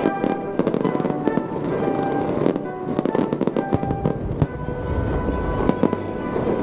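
Fireworks bursting and crackling, with many sharp bangs and a deeper rumble about four seconds in, over a music soundtrack.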